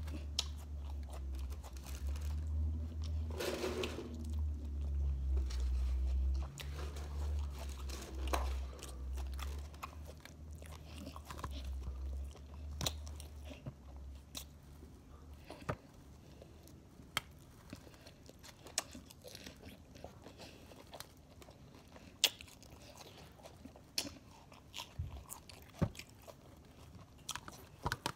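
A person chewing crunchy salad close to the microphone: many short, crisp crunches and mouth clicks. A low rumble runs under the first twelve seconds or so.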